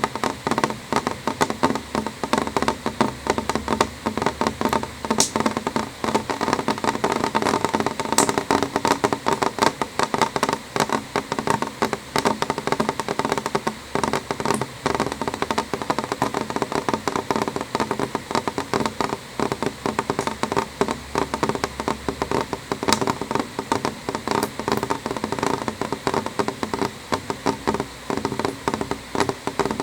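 Rain drops tapping on a window pane: a steady, dense, irregular patter, with an occasional sharper tick standing out.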